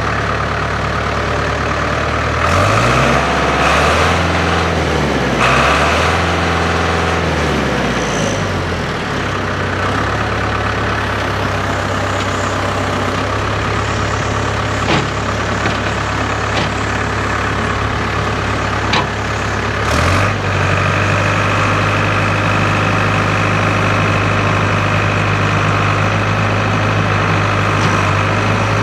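1991 Case IH 895 tractor's four-cylinder diesel engine running just after start-up. It is revved up and back down twice in the first several seconds, then idles steadily, with a short knock and a slight change in the engine note about twenty seconds in.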